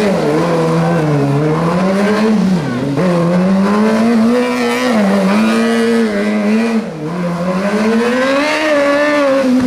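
Rally car engine running hard, its revs climbing and dropping several times as it changes gear and lifts, with sharp drops in revs about three and seven seconds in.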